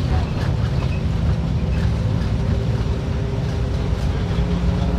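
Diesel engine of a Mercedes-Benz OF-1721 BlueTec 5 city bus running steadily, a low, even drone.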